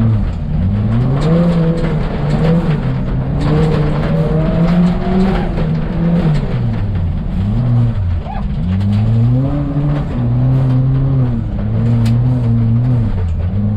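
Ford Fiesta ST rally car's engine being driven hard. The pitch climbs and drops again and again as it accelerates and lifts through the course, with a deeper drop about eight seconds in.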